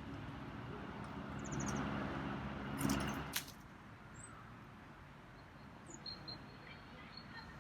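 A low engine hum, like a passing vehicle, fades out after about three seconds. After that, a few short, high bird chirps come faintly from the yard.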